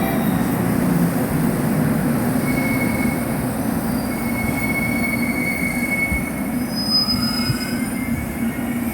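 A train running through a railway station: a steady low rumble of the cars rolling, with thin, high-pitched wheel squeals coming and going a few seconds in.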